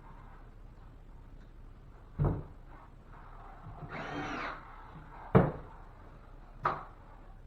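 A drywall patch being fitted and screwed to a ceiling: three sharp knocks, and about four seconds in a brief whine that rises and falls, a cordless drill driving a screw into the patch.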